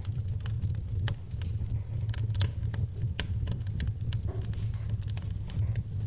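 Wood fire burning in a fireplace, crackling with many irregular sharp pops over a steady low rumble, with rain in the background.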